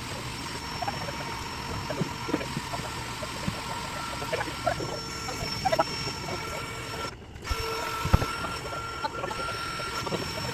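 Honey bees buzzing in a steady drone around an opened colony, with scattered small clicks and knocks from handling.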